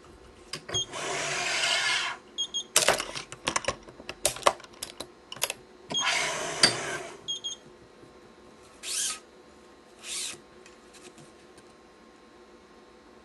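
Badminton stringing: a Yonex Nanogy 99 cross string is pulled through the weave of the main strings in two long rasping swishes, with a run of sharp clicks and taps from the string and stringing-machine clamps between them, then two shorter swishes of string sliding.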